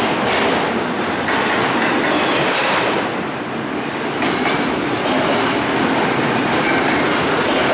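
Double-stack container well cars of a freight train passing close at speed: steel wheels clattering over the rails in a steady, loud, unbroken run.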